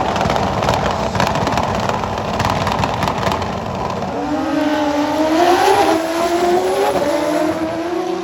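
Drag racing motorcycle at full throttle on a run: a loud, crackling engine roar, then from about halfway a clear engine note that climbs, drops briefly and climbs again as it shifts gears.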